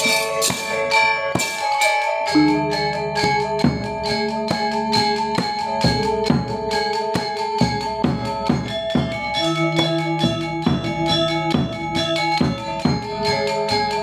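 Balinese gamelan ensemble playing: a fast stream of struck bronze metallophone notes ringing over sustained low gong-like tones.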